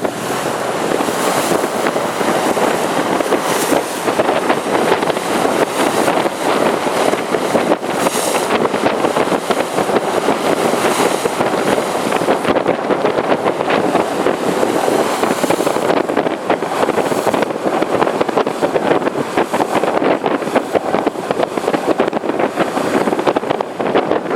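Steady rushing noise of wind and the moving ferry, the wind buffeting the microphone.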